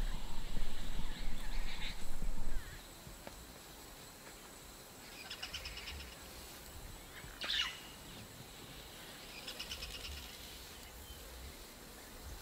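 Wild birds calling in dry bush: a few short trilled calls and one sharp sweeping call, a couple of seconds apart. A low rumble fills the first two or three seconds, then stops.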